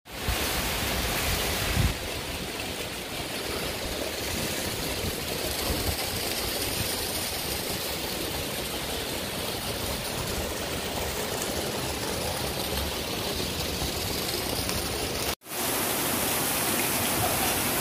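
Heavy rain pouring down and floodwater rushing through a street, a steady dense hiss. It cuts out for an instant about fifteen seconds in and resumes as rushing water.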